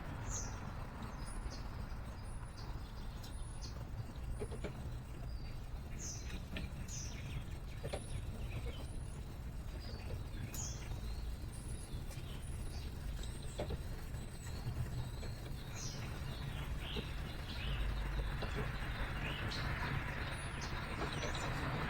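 Small songbirds chirping repeatedly with short, high calls, over a steady low rumble of city traffic; a passing vehicle grows louder near the end.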